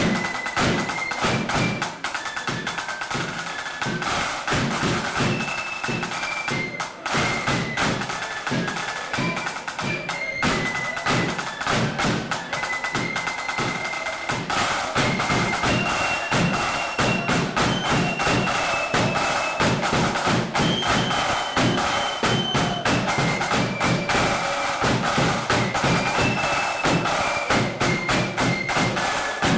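Marching flute band playing a tune: flutes carry a high melody over rapid snare drumming and a bass drum beat.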